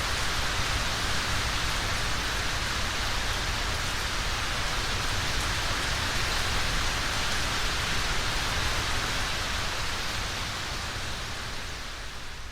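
Steady rain falling, an even dense hiss of drops, fading down over the last couple of seconds.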